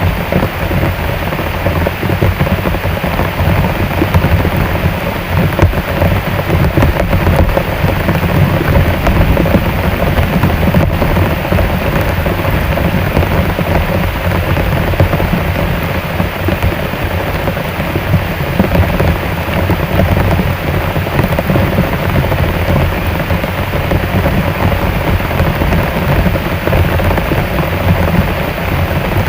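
Heavy rain pouring steadily, drumming on a shelter roof, with a deep low rumble under the hiss.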